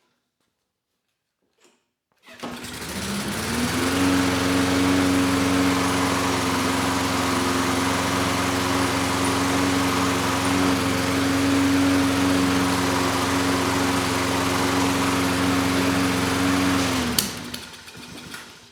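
Toro Recycler mower's Kohler single-cylinder engine starting about two seconds in, rising quickly to a steady run, then shut off near the end: it coughs with a single sharp backfire pop as the flywheel brake stops it, and winds down.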